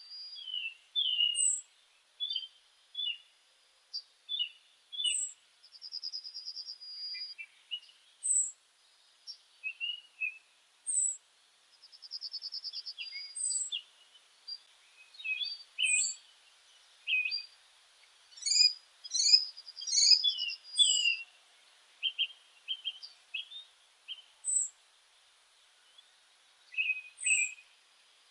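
Several birds calling and singing: short high notes repeating every second or two, rapid buzzy trills about a second long, and scattered lower chirps, busiest around two-thirds of the way through.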